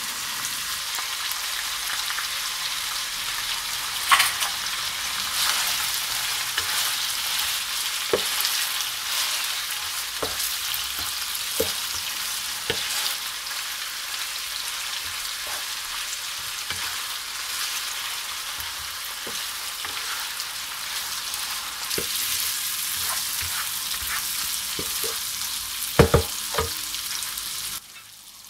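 Chicken pieces and sliced onions sizzling in hot oil in a pan while being stirred with a wooden spoon, the spoon knocking against the pan now and then. Two louder knocks come near the end, and then the sizzling cuts off suddenly.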